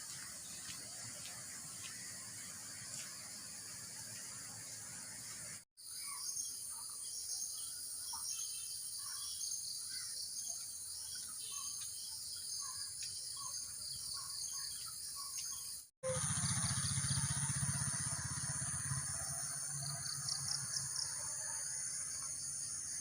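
Outdoor ambience of birds chirping over a steady high insect drone, broken by two abrupt cuts. After the second cut a low hum joins and the sound grows louder.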